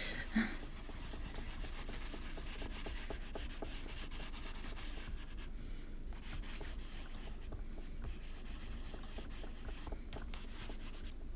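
Colour being rubbed onto paper in many short scratchy strokes, a steady scribbling with a few brief pauses, as new colour is worked over a watercolour background.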